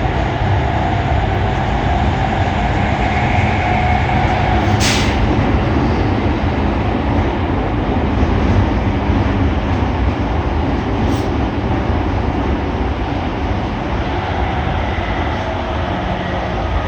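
Running noise of a JR East E231-800 series commuter train heard inside the car at speed: a steady rumble of wheels on rail with a faint whine from the traction motors. Two short high hisses come through, about five and eleven seconds in.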